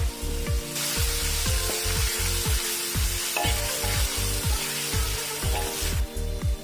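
Ground rawon spice paste and sliced shallots sizzling in hot oil in a wok as they are stirred with a metal spatula; the sizzling starts about a second in and stops shortly before the end. Background music with a steady beat plays under it.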